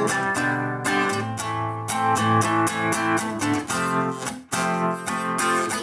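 Acoustic guitar strumming chords in a steady rhythm, with a brief break about four and a half seconds in.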